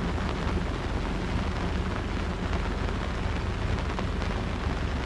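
Heavy rain falling on the boat's top and on the lake surface, a steady, dense noise with a deep rumble.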